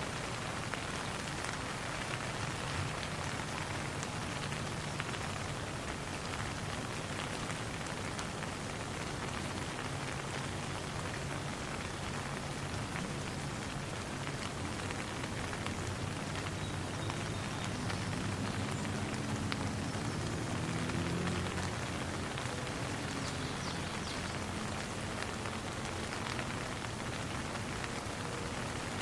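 Steady rain falling, a dense even patter. A faint low rumble swells and fades about two thirds of the way in.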